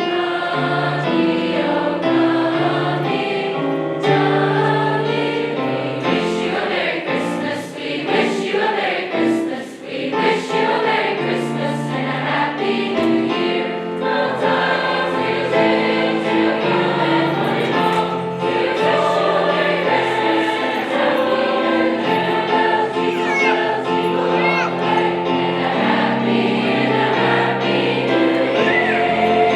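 High school choir singing in harmony, the voices holding notes and moving together from chord to chord.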